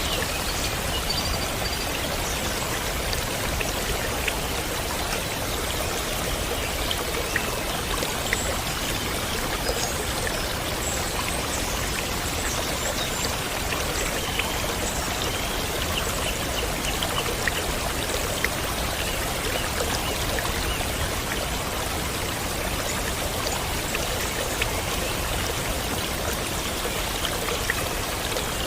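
Clear water falling in a small cascade, a steady, even rush of pouring and splashing water.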